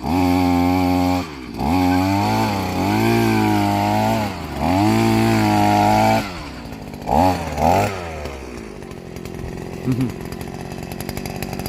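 Two-stroke engine of a handheld petrol earth auger revving hard in three long bursts, its pitch sagging and rising as the bit works into the soil. About seven seconds in come two short blips, then it drops to a rough idle.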